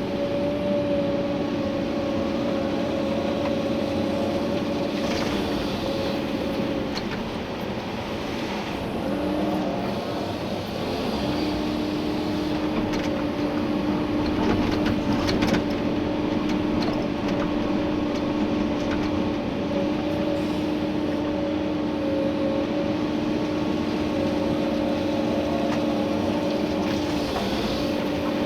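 Komatsu PC290-11 excavator's diesel engine and hydraulics running steadily under working load, heard from inside the cab, with a steady hum that wavers and dips about a third of the way through before settling again. A few knocks of the bucket working gravel come and go.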